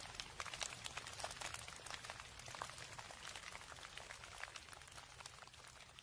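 Rain falling, a dense patter of many separate drops hitting close by, growing slightly fainter toward the end.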